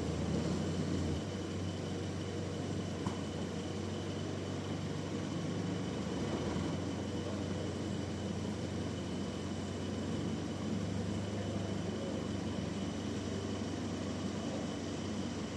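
Band sawmill running steadily: a constant low engine hum with a thin steady whine above it, and one short click about three seconds in.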